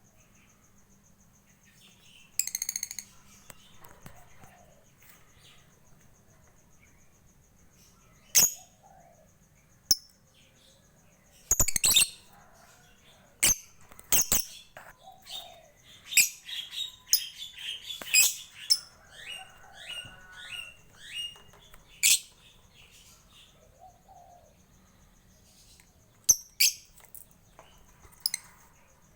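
Lovebird giving sharp, high, shrill calls and ticking notes at irregular intervals, with a busy run of quick chirps and short falling notes about halfway through.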